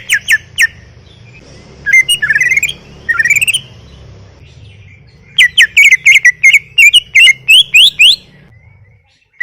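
Greater green leafbird (cucak ijo) singing loudly in full song: short phrases of quick, sharply sweeping whistled notes near the start and about two and three seconds in, then a longer string of rapid notes from about five to eight seconds in.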